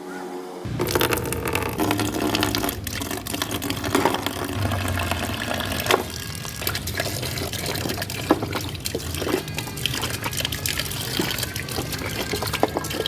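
Running or pouring liquid, with scattered sharp knocks, the loudest about six and eight seconds in.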